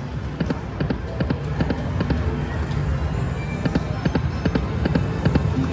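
Dancing Drums Prosperity slot machine spinning its reels: a quick, uneven run of drum-like thumps and clicks over casino background noise and murmuring voices.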